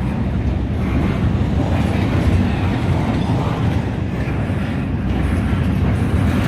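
Freight train cars rolling past on the rails, a steady, unbroken noise of wheels on track.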